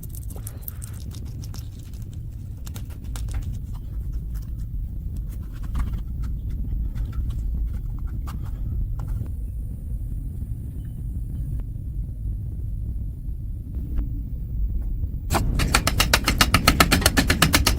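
Small metal mechanism being worked by hand: scattered clicks and taps over a low rumble. About fifteen seconds in, a fast, even rattle of clicks, roughly ten a second, starts and is the loudest part.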